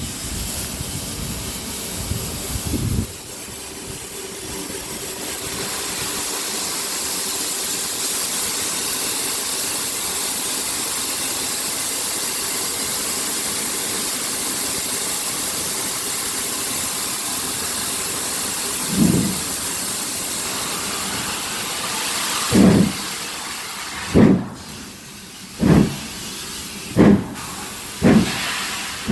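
GWR Castle class 4-6-0 steam locomotive 4079 Pendennis Castle with steam hissing steadily, then starting away: slow, heavy exhaust beats begin about two-thirds in and come gradually quicker, about one a second by the end.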